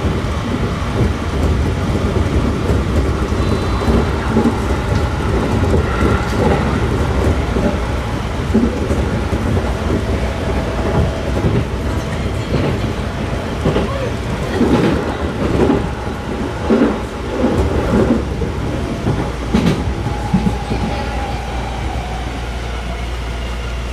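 Freight train running on the rails: a continuous loud rumble with irregular clanks and knocks of the wheels and wagons.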